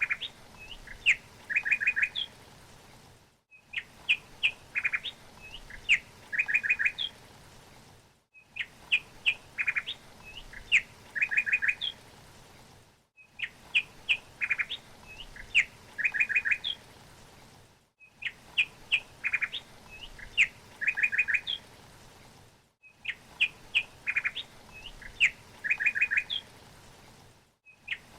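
A small songbird chirping: a phrase of sharp chirps and quick trills, repeated identically about every five seconds as a loop, with a short silent gap between repeats. A faint steady hiss lies under the calls.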